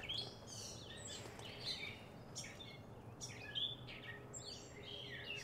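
Birds chirping: many short high calls, scattered throughout and fairly faint.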